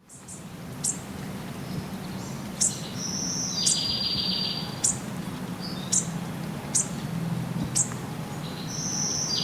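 Songbirds calling: short, sharp high chirps about once a second, and twice a longer call in which a high note runs into a buzzy trill. A low steady hum lies underneath.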